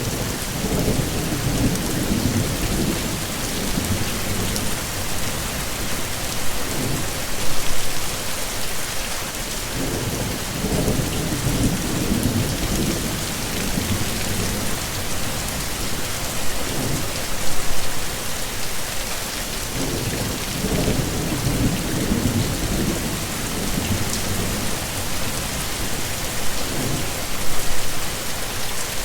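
Heavy rain falling steadily, with low rolls of thunder rumbling up three times, about ten seconds apart.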